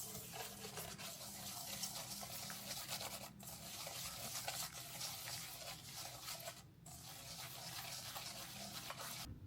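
Water running from a kitchen tap into a sink with a steady splashing hiss, stopping briefly twice and cutting off near the end.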